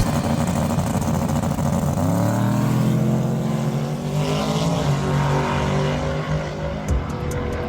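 Car engine revving: its pitch climbs about two seconds in, then holds high and fairly steady.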